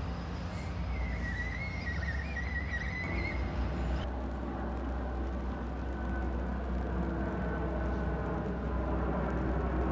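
EXO commuter trains: a low rumble with a wavering high squeal for a couple of seconds as one train pulls away, then the steady low drone of a distant approaching train slowly growing louder.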